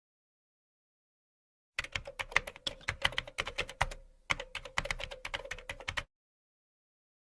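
A burst of rapid, uneven clicks, about eight a second, starting about two seconds in and stopping about six seconds in, with a short break in the middle; a faint steady hum lies under the clicks.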